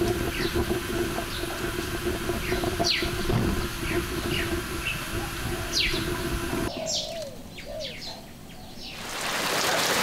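Small birds chirping in short, falling chirps, over a steady low hum and crackle that stops abruptly about two-thirds of the way through. Near the end, the hiss of rain rises.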